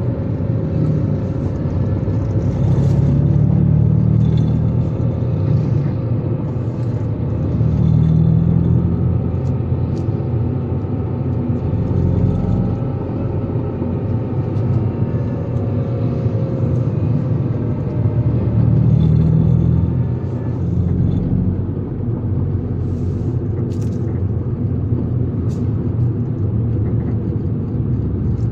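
Vehicle driving along a road: steady engine and road rumble that swells and eases a few times as it goes.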